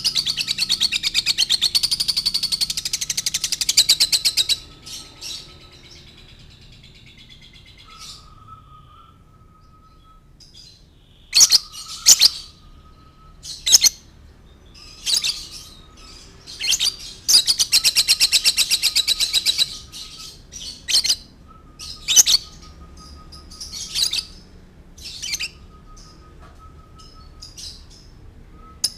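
Lovebird singing: a long, very rapid chattering trill of several seconds, then scattered short sharp chirps, then a second long trill past the middle. A faint thin steady note recurs underneath.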